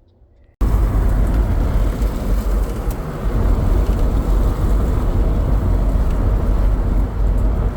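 Steady, loud vehicle rumble, heavy in the low end with a rushing noise over it, cutting in sharply about half a second in.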